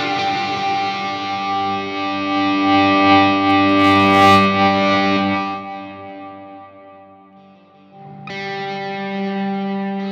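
Electric guitar chords played through an EarthQuaker Devices Avalanche Run stereo delay and reverb pedal, ringing in a long wash of ambient reverb and delay. The first chord swells, then fades away, and a new chord is struck about eight seconds in.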